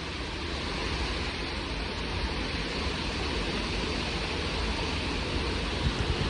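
Strong gusting wind blowing in a steady rush, with a heavy low rumble underneath.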